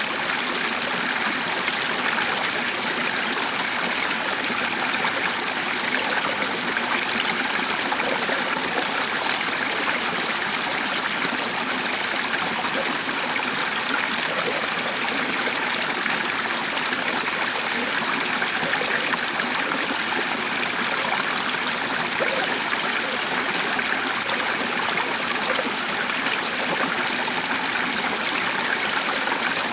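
Steady flowing water, like a stream running over stones, an even rushing sound with no breaks.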